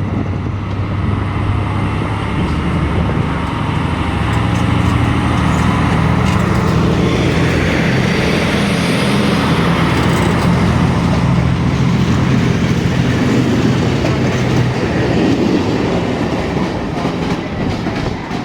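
A train running on the tracks with a steady low drone from its engine or traction motors. A run of sharp clicks comes near the end.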